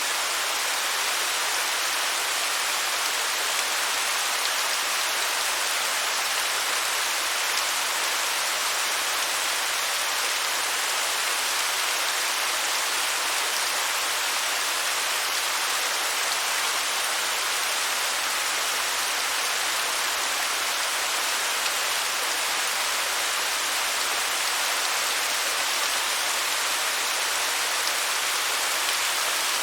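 Waterfall: a steady, even rush of falling water, mostly high hiss with little deep rumble.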